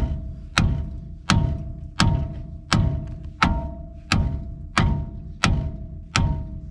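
Steady, evenly paced hammer blows on a brake caliper that is seized onto its mount, about ten strikes at a little under one and a half a second. Each blow is a sharp knock with a short metallic ring after it.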